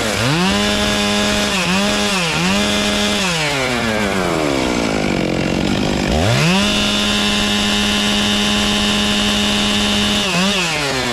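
Two-stroke chainsaw running at high revs, dipping briefly several times in the first few seconds. Around the middle it slows almost to idle, then revs back up and holds steady at full throttle.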